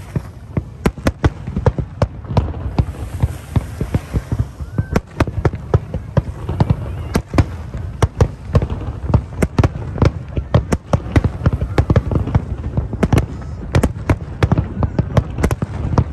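Aerial fireworks display: a rapid, irregular barrage of shell bursts, many bangs a second, over a continuous low rumble.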